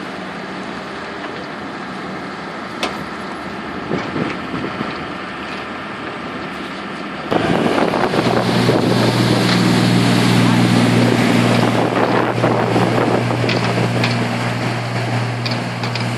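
Wind buffeting the microphone, with an engine running steadily. About seven seconds in, the sound suddenly gets louder and a low, even drone comes in and holds.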